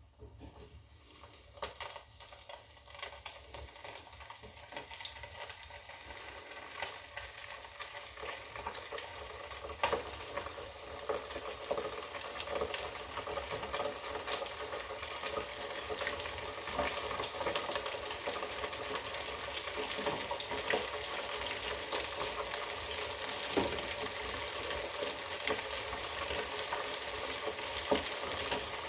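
Round goby fish frying in a hot pan: a crackling sizzle with frequent sharp spatters. It starts faint and grows louder over the first ten seconds or so, then holds steady.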